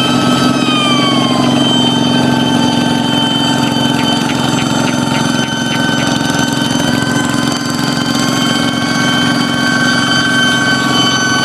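Kubota hand tractor's single-cylinder diesel engine running steadily, with a high, jet-like whine over it. The whine dips in pitch about a second in and climbs back around seven seconds, and a short run of ticks comes in the middle.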